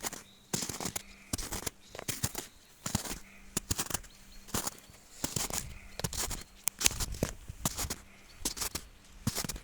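Walking footsteps crunching at an even pace, about one step every three-quarters of a second.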